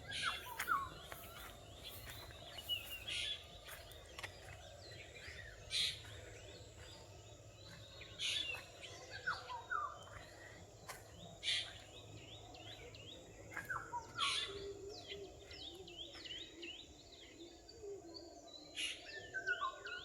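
Forest birds chirping and calling: many short, overlapping calls with quick pitch slides. Brief sharper sounds recur every two to three seconds over a low steady background noise.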